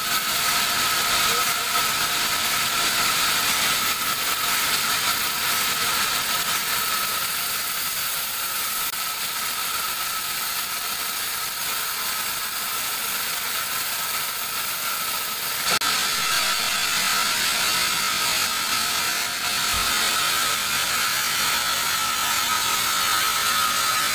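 Large band sawmill running, its blade sawing teak: a steady hiss with a constant high whine.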